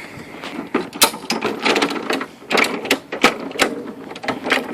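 Lawn mower being shaken and handled to stir fuel stabilizer into its gas tank: an irregular run of clicks, knocks and rattles, with the engine not running.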